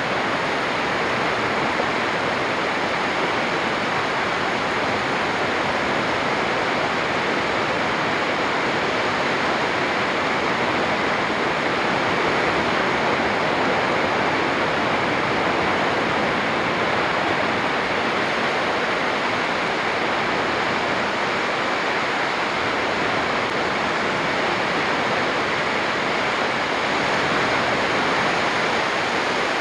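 Surf breaking on a sandy beach: a steady, unbroken wash of waves.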